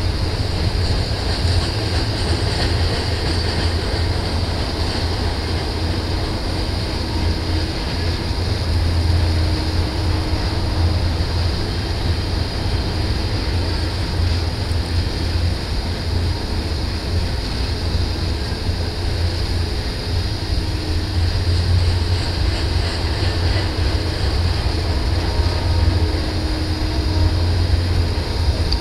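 Long double-stack intermodal container train running past at a steady pace: a continuous rumble of the freight cars' wheels on the rails.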